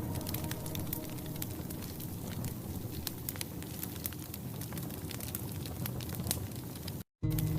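Wood fire crackling inside a wood-burning stove: many irregular sharp pops and clicks over a low hiss. Near the end the sound cuts out for a moment and music comes in.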